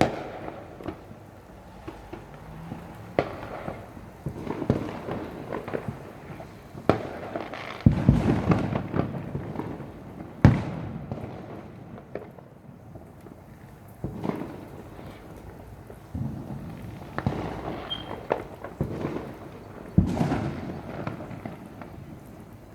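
Fireworks going off: a string of sharp bangs, each followed by crackling, with the loudest bangs about 8, 10 and 20 seconds in.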